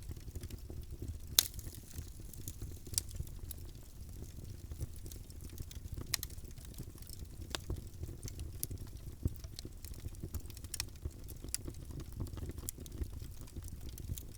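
Wood fire burning in a fireplace: irregular sharp crackles and pops over a steady low rumble of the flames, with one loud pop about a second and a half in.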